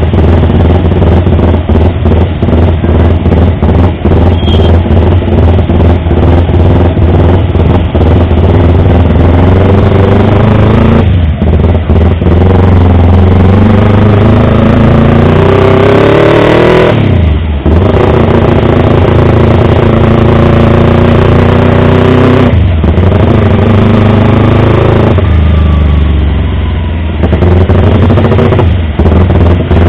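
Yamaha R25 motorcycle's 250 cc parallel-twin engine running loud, its pitch climbing and then dropping sharply about five times as the revs fall and pick up again.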